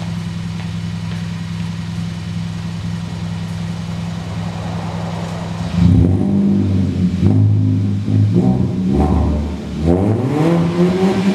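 Hyundai Veloster's exhaust with the muffler deleted, loud: the engine runs at a steady idle drone, then revs several times from about six seconds in. Near the end the pitch climbs and holds higher.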